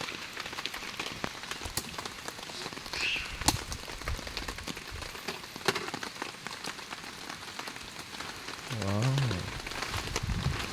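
Heavy rain coming down steadily, with many separate drops ticking sharply through the hiss. A short voice sounds about nine seconds in.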